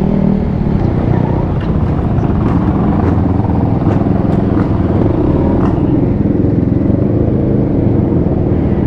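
Dirt bike engine running at a fairly steady speed while riding, close to the microphone.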